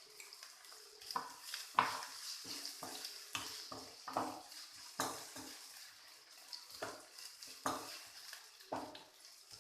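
A spoon knocking and scraping against a cooking pan at an irregular pace while stirring onions and tomatoes, over a faint steady sizzle of frying.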